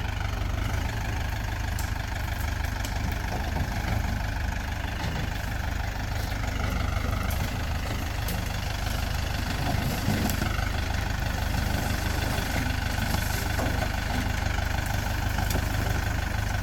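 Engine idling steadily, with a strong low rumble.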